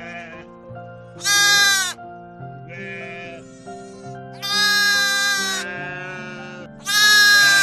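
An animal calling repeatedly over background music: three loud calls, each under a second with a drop in pitch at its end, and softer, shorter calls between them.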